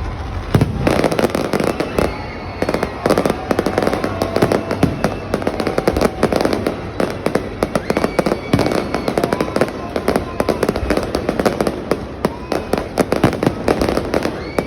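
Fireworks going off in a dense, rapid crackle of many small bangs that starts about half a second in and keeps going without pause.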